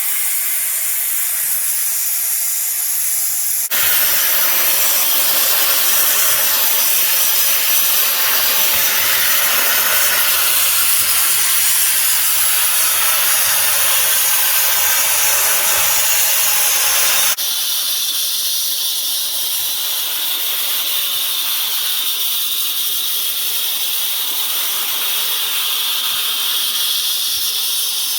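mycon JetBoy duct-cleaning tool blowing compressed air with a steady loud hiss; the hiss jumps louder and fuller about four seconds in and drops back suddenly about seventeen seconds in.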